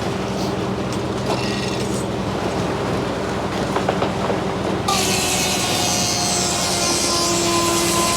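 Sawmill machinery running steadily, with metal rattles and clicks as the log is dogged onto the carriage. About five seconds in, a loud high hiss and whine starts suddenly and carries on.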